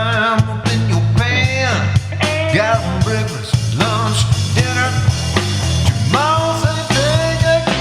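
Blues-rock band recording in an instrumental break between vocal lines: a lead instrument bending its notes up and down over a steady bass line and drums.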